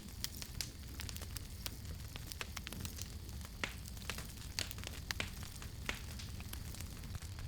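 Wood fire crackling: irregular sharp pops and snaps scattered over a steady low rumble of burning.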